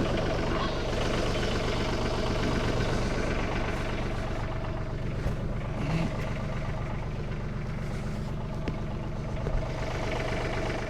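An engine idling steadily, then stopping suddenly near the end.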